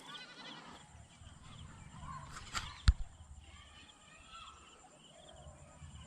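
Faint bird calls chirping in the background, with one sharp knock about three seconds in.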